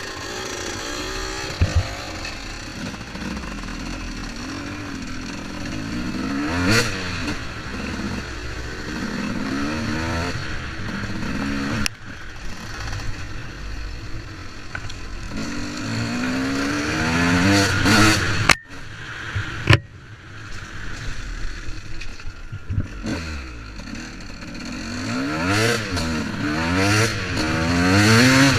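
Honda CR125 two-stroke motocross bike being run in, its engine revving up and falling back again and again. The sound breaks off briefly about two-thirds of the way through.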